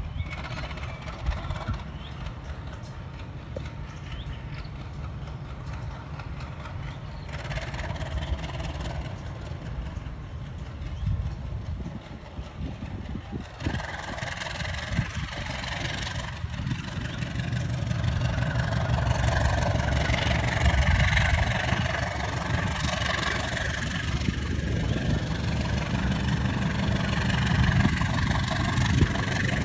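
Diesel engine of a commuter train running with a steady low rumble, growing louder about halfway through as more mid and high noise joins it.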